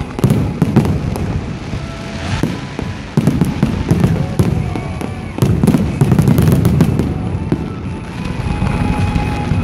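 Fireworks display: rapid, overlapping bangs and crackles from bursting shells over a continuous low rumble, with no pause.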